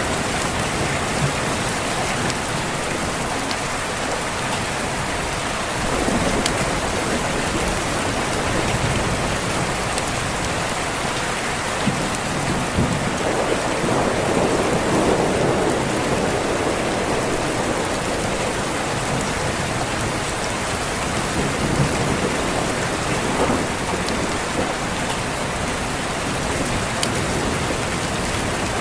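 Steady heavy rain hiss, with a soft roll of distant thunder swelling and fading around the middle, and a few faint clicks scattered through.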